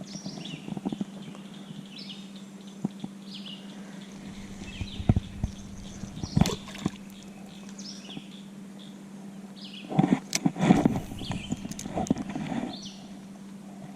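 Hollow knocks and clatter in two clusters, about five and ten seconds in, over a steady low hum, with short high chirps throughout.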